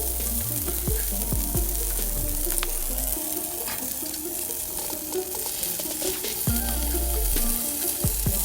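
Yakitori chicken skewers sizzling as they grill over a small fire pit, a steady crackling hiss with small pops. Background music plays over it.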